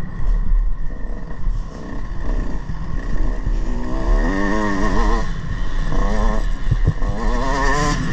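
Motocross bike engines revving up and down, the pitch rising and falling repeatedly as the throttle opens and closes, over a steady low rumble.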